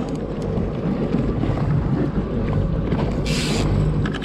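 Wind buffeting the microphone over a steady low rumble on an open boat, with a brief hiss about three seconds in.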